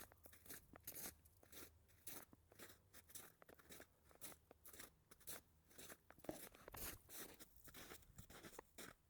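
Footsteps crunching in snow while walking, an uneven run of several crunches a second.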